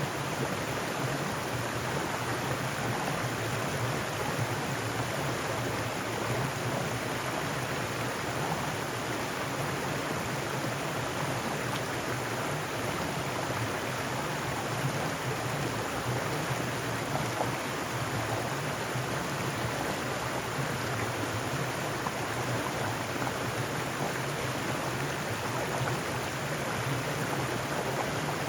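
Mountain stream running over rocks, a steady rushing and babbling of water.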